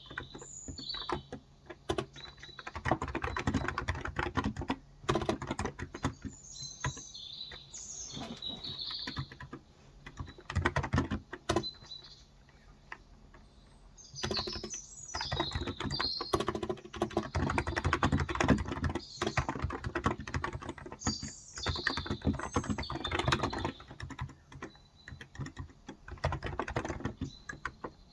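Typing on a Cox Endeavour electro-capacitive (Topre-style) tenkeyless keyboard with 35 g switches: runs of quick keystrokes broken by short pauses. Birds chirp in the background several times.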